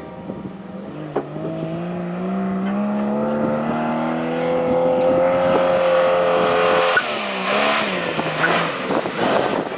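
An off-road vehicle's engine pulling hard, its pitch climbing steadily for about six seconds, then dropping off about seven seconds in as the throttle eases.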